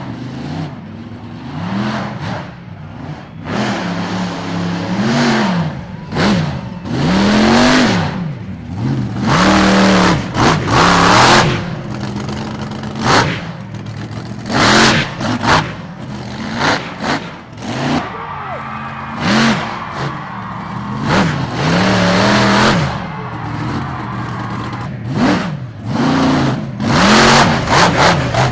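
A monster truck's supercharged V8 engine revs up and drops back over and over during a freestyle run. Loud bursts of full throttle come every second or two.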